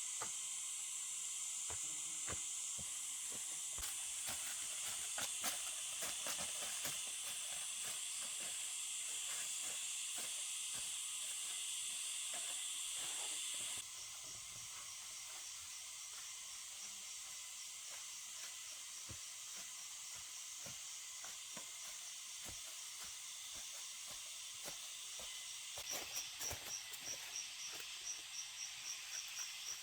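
Steady high insect chorus with scattered light clicks. About two-thirds of the way through it drops suddenly to a quieter chorus. Near the end a pulsed high chirping insect call starts, about four pulses a second.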